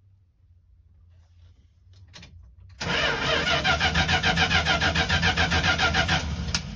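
1975 Winnebago Brave's engine being cranked by the starter with a fast, even chug of about five beats a second for roughly three seconds, then stopping without catching. The owner suspects a blocked fuel line, and the battery is running low from repeated cranking.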